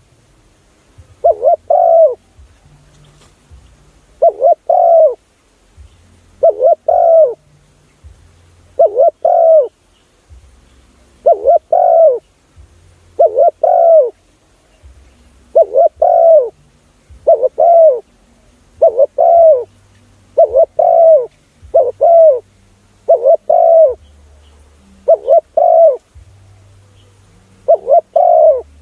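Spotted dove calling: loud, repeated phrases of two or three coos, one phrase about every two seconds, used as a lure call.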